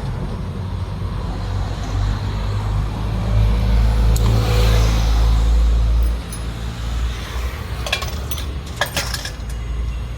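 A vehicle engine running with a low rumble that grows louder for a few seconds in the middle, then a few sharp metal clinks near the end.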